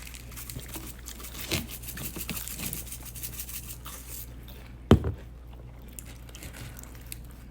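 Pepper-flake packet being torn open and crinkled, with a run of fine crackling over the first few seconds. A single sharp knock comes about five seconds in.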